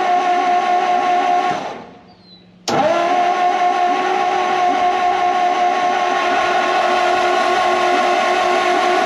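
Starter motor cranking the formerly seized engine of a 1959 Ford F700 with its spark plugs out, spinning it over freely with a steady whine. The first crank stops about a second and a half in, and a second crank starts just under three seconds in and runs on. The engine turning freely off the starter is a good sign that it is no longer locked up.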